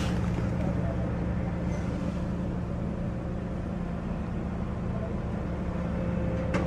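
Bentley Continental GT engine idling steadily: an even low hum with no revving.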